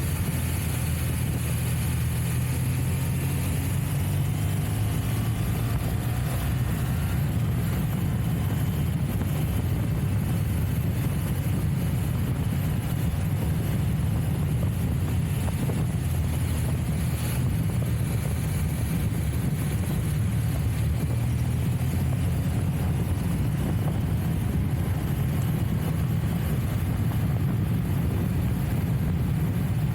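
Trials motorcycle engine running steadily at low revs, with a few faint rises in pitch in the first several seconds.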